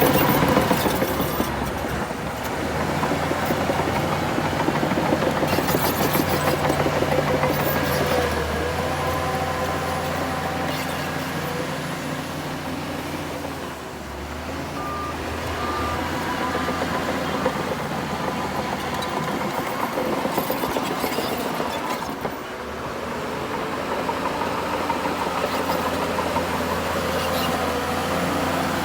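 Heavy diesel earthmoving machinery, a bulldozer and dump trucks, running under load with a steady low engine note that eases and swells as they work. A few short beeps sound near the middle.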